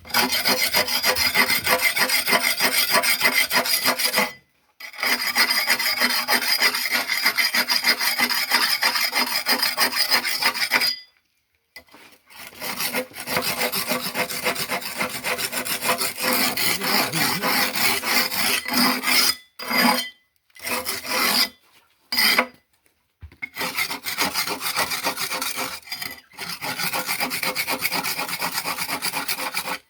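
Harsh rasping scrape, like a tool worked hard against rough masonry during cement work. It runs in long unbroken stretches of several seconds, with sudden short stops between them.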